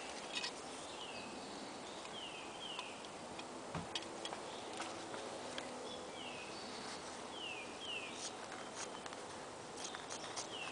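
Bird calls: short high notes sliding downward, often in quick pairs, repeated every second or two. Scattered sharp ticks and a steady outdoor hiss lie underneath.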